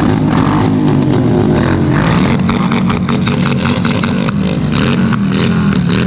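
Motorcycle engine with a loud exhaust, revved up and down several times, its pitch rising and falling with each blip of the throttle.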